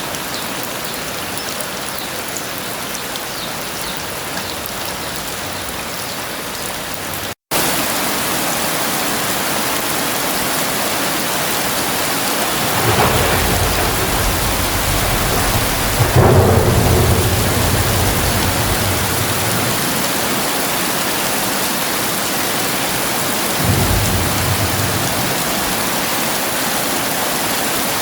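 Heavy rain falling steadily, with three deep rolls of thunder: one about halfway through, the loudest a few seconds later, and a shorter one near the end. About a quarter of the way in the sound drops out for an instant, and the rain comes back slightly louder.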